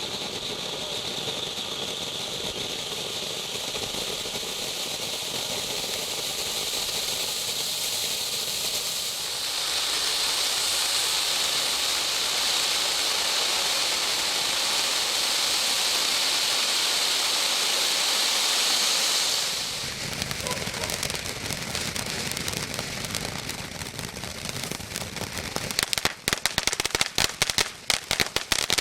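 Consumer fireworks from a selection box. A steady high hiss steps louder about ten seconds in, gives way around twenty seconds to a lower rushing, crackling sound, and ends in a rapid run of sharp cracks.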